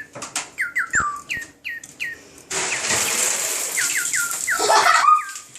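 Whistle-repeating toy bird chirping: a string of short, quickly falling chirps, two or three a second. About halfway through, a steady hiss starts under the chirps and runs on until near the end.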